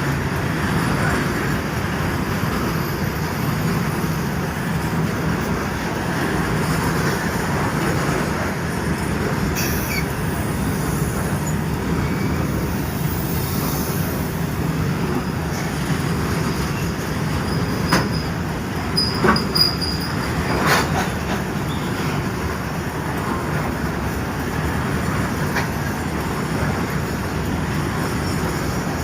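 Coal freight train rolling by: a steady rumble of wheels on the rails, with a few sharp clacks and a brief high squeal a little past the middle.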